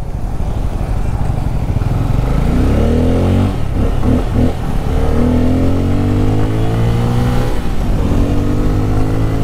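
Bajaj Pulsar N250's single-cylinder engine and exhaust accelerating under the rider, pitch rising steadily. The pitch drops briefly twice, about four seconds in and again about seven and a half seconds in, as at upshifts, then climbs again each time.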